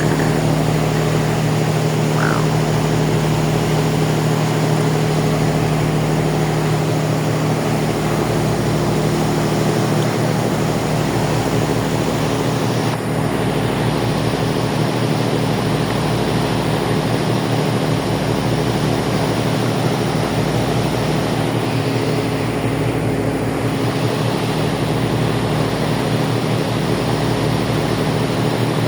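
Ferry's engines running steadily, a loud drone with several steady tones over a wash of noise, and a low throb that dips about every two seconds.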